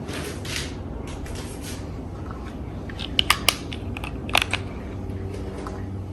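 Hampton Bay Brookedale ceiling fan running with a steady low motor hum, a fan the owner says hums a lot, runs slowly and has a bad capacitor. A few sharp clicks come about halfway through.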